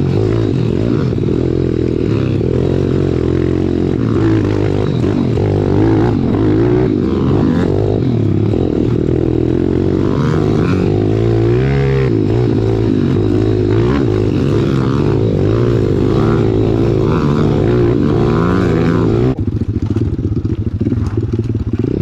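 Pit bike's small single-cylinder four-stroke engine running while riding trails, its pitch rising and falling with the throttle. About 19 seconds in the sound changes, the higher part dropping away.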